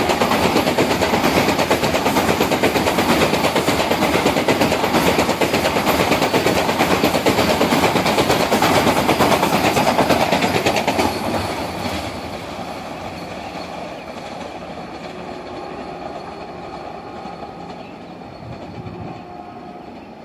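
Vande Bharat Express electric trainset passing at speed without stopping: a loud, dense rumble and wheel clatter for about eleven seconds. The sound then drops sharply and fades steadily as the train moves away.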